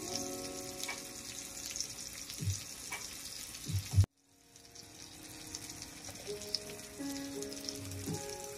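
Background music with soft held notes over a faint steady sizzle of food frying in a miniature pan. Both cut out abruptly about four seconds in and then fade back up.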